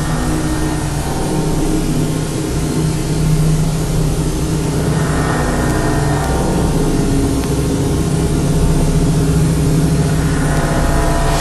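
A loud, steady low drone like an engine running, with higher tones swelling in about halfway through and again near the end.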